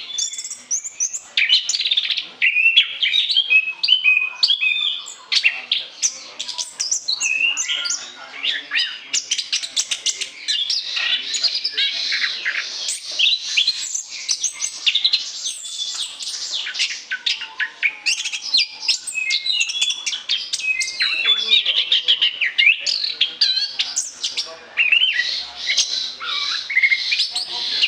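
Orange-headed thrush singing without pause: a fast, varied stream of high whistled and chattering phrases.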